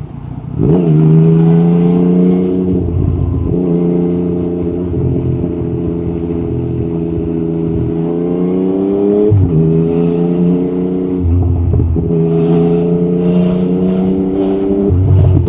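Yamaha MT-09 SP inline-three engine through an Akrapovic carbon racing exhaust, pulling hard with the pitch climbing in each gear and dropping sharply at gear changes: about half a second in, near three seconds, around nine seconds and near twelve seconds.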